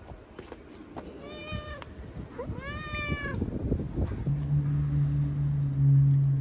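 A domestic cat meows twice, each call rising and then falling in pitch, about a second and a half apart, over light rustling. About four seconds in, a steady low drone starts and becomes the loudest sound.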